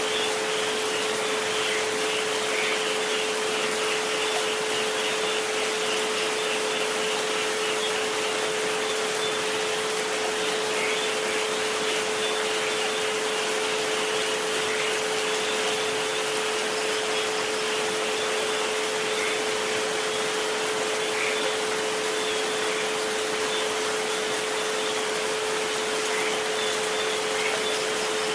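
Steady rain noise with two pure sustained tones laid over it, the 432 Hz and 528 Hz 'relaxation frequencies'; the lower tone is the louder.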